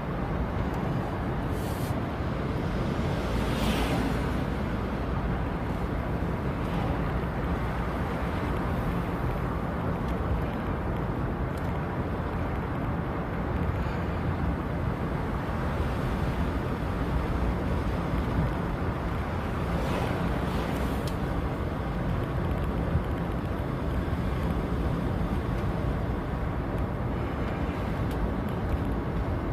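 Car driving with the windows down: steady wind and road noise over the engine's low hum, with a few brief swells of hiss.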